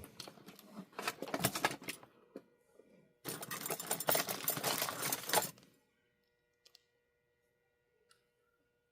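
Small metal parts and tools rattling and clicking as someone rummages through them on a workbench, in two bouts, the second starting about three seconds in and lasting a couple of seconds.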